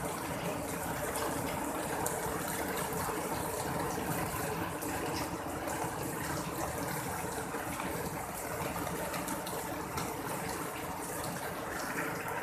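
Heavy tropical rain pouring down steadily, a dense wash of falling and splashing water.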